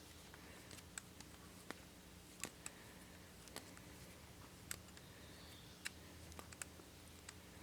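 Near silence with faint, irregular light clicks and ticks of small metal parts and a hand tool being handled, here the valve spring being compressed with a spring compressor.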